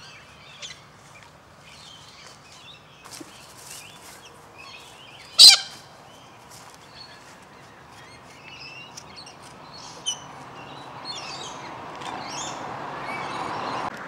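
Galahs calling: scattered short, high chirps and squawks, with one loud, harsh screech about five seconds in. A low rushing hiss builds over the last few seconds.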